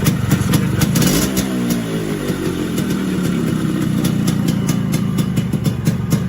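Yamaha RX100's freshly rebuilt single-cylinder two-stroke engine running on the bike. About a second in its revs fall back from a blip, then it settles into a steady idle with a crackly, ticking exhaust note.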